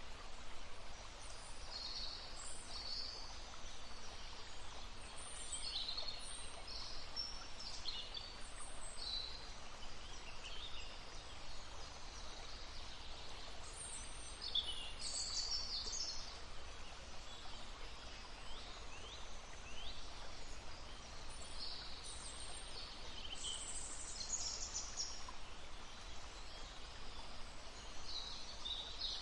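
Small songbirds singing and chirping in short, scattered phrases over the steady rushing murmur of a brook.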